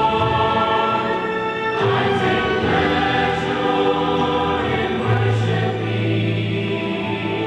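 A choir singing sustained chords, the harmony changing about two seconds in and again about five seconds in.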